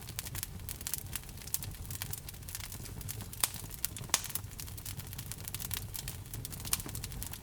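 Fire in a fireplace crackling, with irregular small snaps and two louder pops around the middle, over a low, steady rumble.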